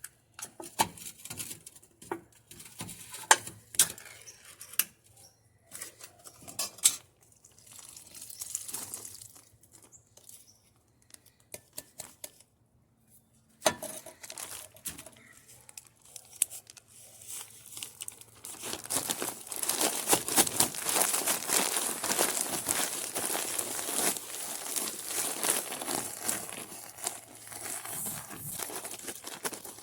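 Crinkling, tearing and scattered small knocks as packets of breadcrumbs, jello and corn are handled for carp dough bait. About two-thirds of the way in, this gives way to a steady, dense rustling as the mixture is mixed.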